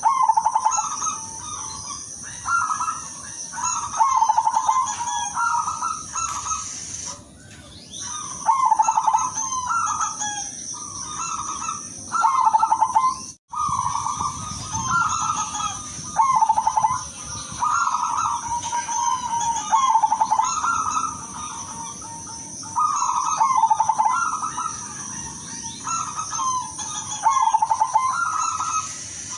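Zebra dove (perkutut) cooing its rhythmic song over and over, a trilled phrase every second or two. A steady high whine runs behind it, and the sound drops out briefly about halfway through.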